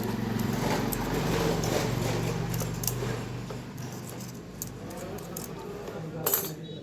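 Small clicks and rattles of fan parts being handled during a repair, over a steady low hum that fades after about four seconds, with one sharper scraping clack near the end.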